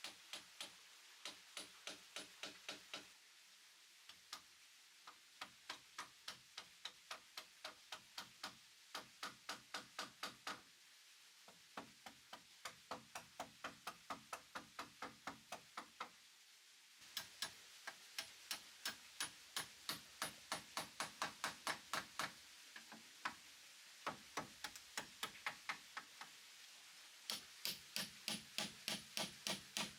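Hand tool working wood with quick, regular knocks, about three a second, in runs broken by short pauses.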